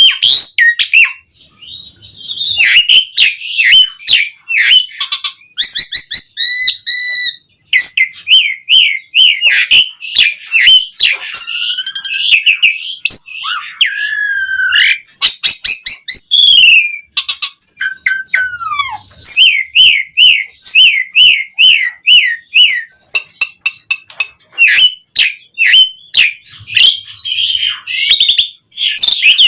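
Asian pied starling (jalak suren) singing in full voice: a long, varied song of whistles, downward-sliding notes, quick runs of repeated notes and sharp clicking chatter, with only brief pauses.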